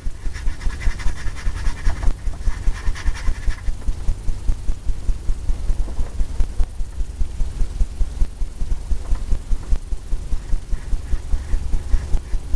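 Paintbrush scrubbing back and forth on a stretched canvas, about four strokes a second, a scratchy rubbing with a dull thump on each stroke; brighter and scratchier for the first few seconds.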